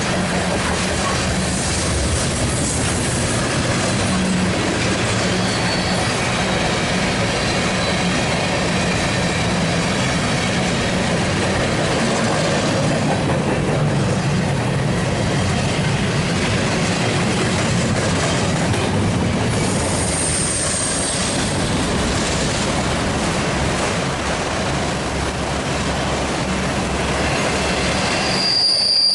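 BNSF mixed freight train rolling past: a steady loud rumble and rattle of freight car wheels on the rails. High wheel squeals come and go, clearest about two-thirds of the way through and again near the end.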